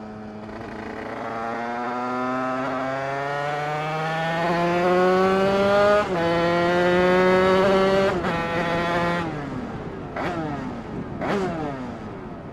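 Two-stroke 50cc motorbike engine bored out with an 80cc MHR Team kit and a Bidalot expansion pipe, accelerating hard. The revs climb steadily, drop at an upshift about six seconds in, climb again and drop at a second shift about two seconds later. The throttle is then closed, with two short rev blips that fall away.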